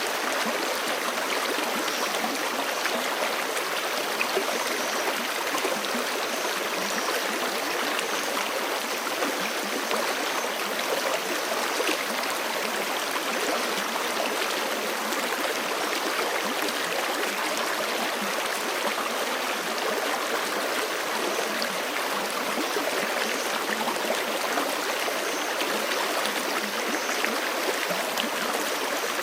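Forest stream rushing and gurgling over rocks, a steady, unbroken flow.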